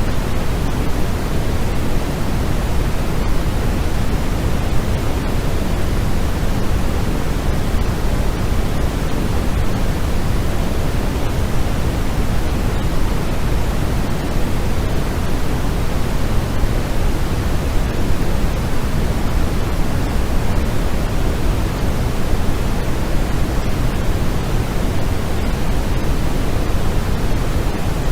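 Steady generated noise for sleep, even and unchanging, fuller in the low end than the high, like pink noise.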